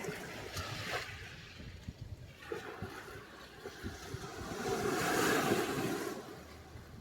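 Sea surf: waves breaking and washing up the shore, a smaller wash at the start and a bigger one that swells to a peak about five seconds in and then fades.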